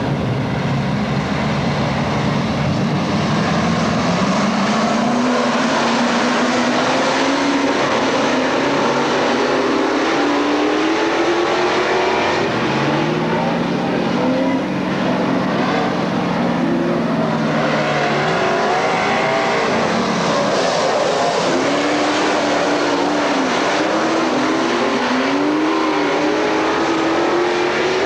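Several dirt-track race cars racing, their engines revving up and down as they run through the turns and pass, with more than one engine heard at once.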